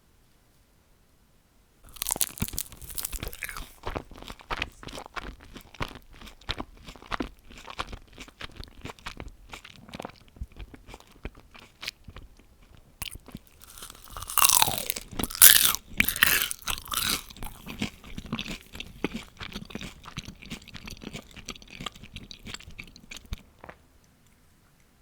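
Crunching and chewing of crispy fried food, starting about two seconds in. A loud crunchy bite comes a little past halfway, then the chewing goes on and stops shortly before the end.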